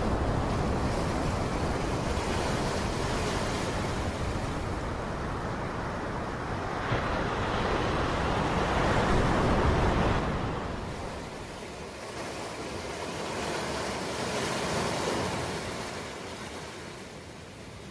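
Ocean surf: waves washing in and out in slow swells. The sound is loudest about ten seconds in, then ebbs, with a smaller swell a few seconds later.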